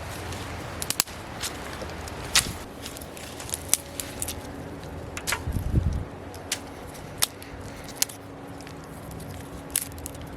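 Wood fire burning in a fireplace: irregular sharp crackles and pops over a steady low hiss, with a brief low rumbling flare about halfway through.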